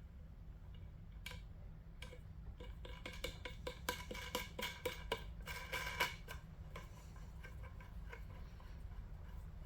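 Steel elevator bolt being screwed into a pronged T-nut in a wooden table leg: faint, irregular metallic clicks and clinks, busiest in the middle few seconds.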